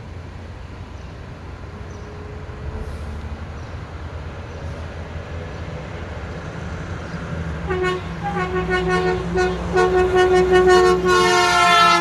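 Mack front-loader garbage truck approaching with its diesel engine running louder and louder, then sounding its horn as a salute: a string of short toots from about eight seconds in, ending in a longer, louder blast near the end.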